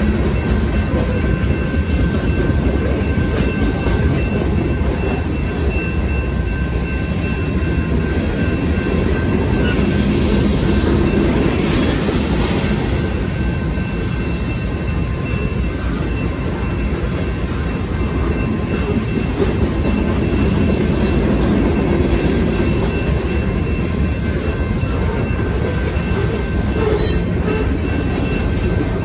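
Freight train's boxcars and centerbeam lumber cars rolling steadily through a road crossing with a continuous rumble of wheels on rail. The crossing signal bell rings steadily over it.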